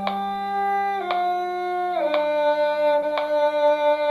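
Bowed strings playing a slow duet line in held notes, changing pitch about once a second, over a metronome click that ticks about once a second. A lower held note sounds under the upper line until about two seconds in.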